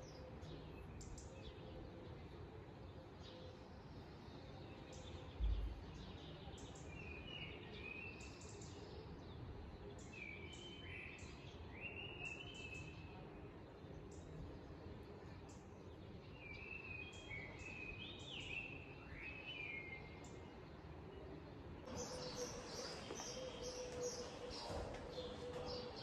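Small birds singing in short gliding, chirping phrases over a steady background hiss. A brief low thump comes about five seconds in, and near the end the chirping grows denser and louder alongside a steady hum.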